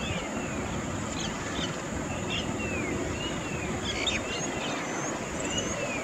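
Wild birds calling: short arched whistles and brief chirps every second or so, over a steady high hiss and outdoor background noise.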